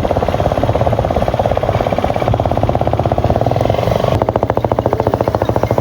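Motorcycle engine running with a rapid, even pulse from the exhaust; the note changes about four seconds in. The bike is plausibly the rider's Yamaha FZ-S V2, a 149 cc single-cylinder.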